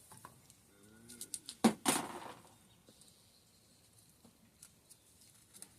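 Small handling noises as a seal is worked off a Fox DPS rear shock part: a brief faint squeak, then two sharp clicks of small metal parts just under two seconds in, followed by a few light ticks.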